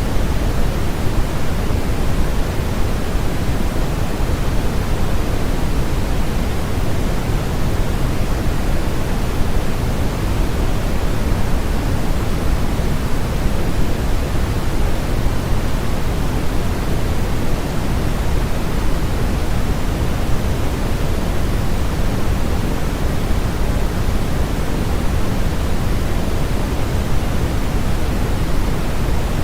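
Steady generated noise from a sleep-aid track: an even, unbroken hiss, heavier in the low end than in the highs.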